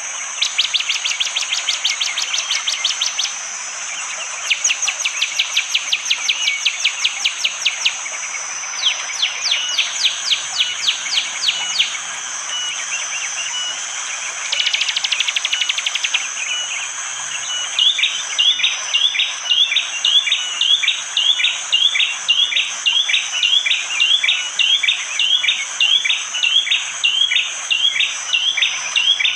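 Prenjak jali (a prinia) calling in rapid bursts of dry ticking notes, four bursts of a few seconds each, then settling into a steady run of repeated chirps at about two a second. A continuous high insect drone runs underneath.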